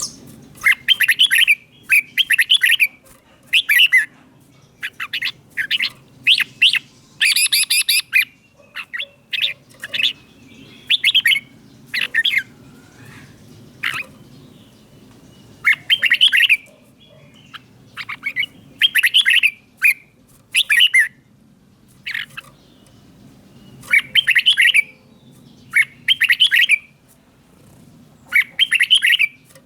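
Red-whiskered bulbul singing short, bright, warbling phrases, repeated every second or two with brief pauses between them. A faint low hum runs underneath.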